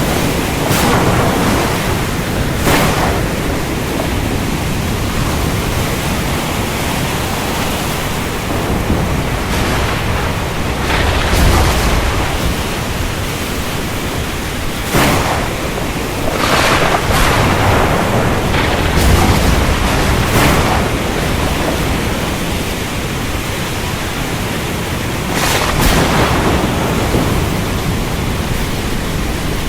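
Steady heavy rain hiss with thunder: sharp cracks and low rumbles rise out of it every few seconds at uneven intervals.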